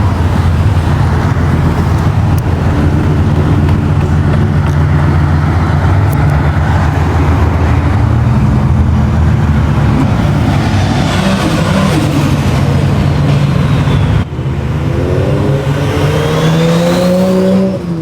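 Loud car engine running with a deep, steady rumble, then revving up near the end, its pitch rising as it accelerates away.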